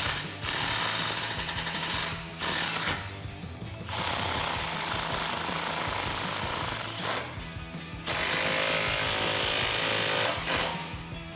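Impact wrench hammering in several runs of one to three seconds each, with short pauses between, tightening the exhaust clamp nuts.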